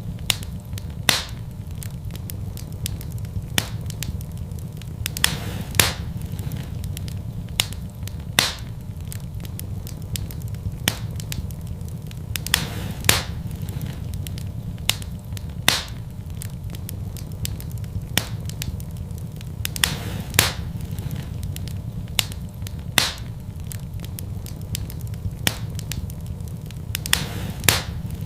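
Fire in a fireplace crackling, with sharp irregular pops every second or two over a low steady rumble.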